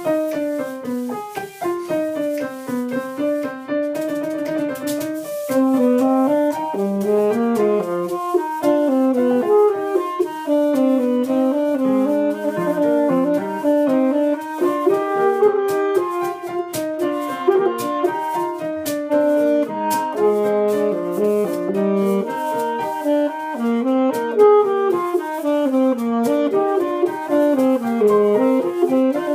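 Piano music: a quick-moving melody over chords.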